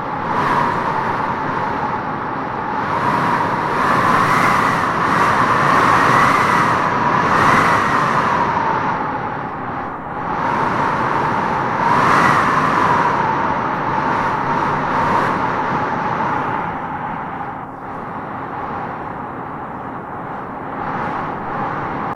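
Wind howling in gusts through trees: a steady rush with a wavering whistle over it, swelling about four seconds in and again around twelve seconds, then easing off.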